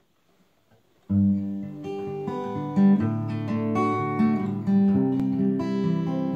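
Acoustic guitar intro: a steady run of chords and notes that starts abruptly about a second in, after a brief silence.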